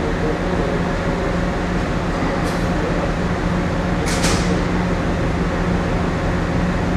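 Steady machinery drone inside a moored passenger ferry: the ship's onboard machinery and ventilation running, with a constant low hum and rumble. A brief hiss cuts through a little past midway.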